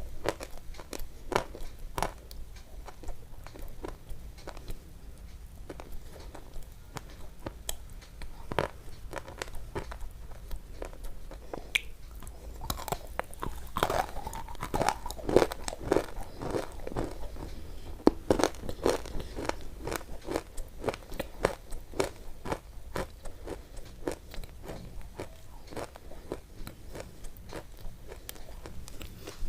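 Close-up crunching and chewing sounds: a steady run of crisp cracks and clicks, with a stretch of pitched, squeaky sound in the middle.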